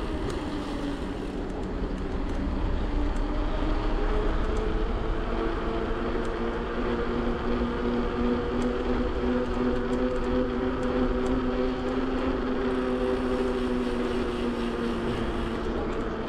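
Road and wind noise on the microphone of a moving electric bike, with a steady whine that creeps slowly upward in pitch from about six seconds in.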